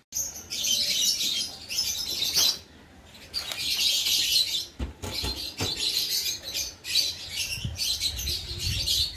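Small pet parrots chattering and chirping in repeated shrill bursts, with a few low bumps about halfway through and near the end.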